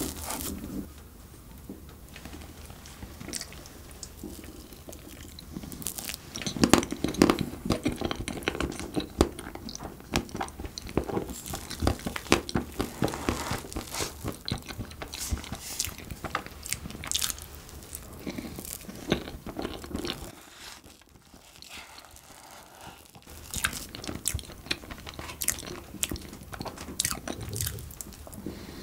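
Wet chewing and mouth smacks of soft cream cupcakes eaten by the spoonful, with many small clicks and smacks and a short lull about two-thirds of the way through.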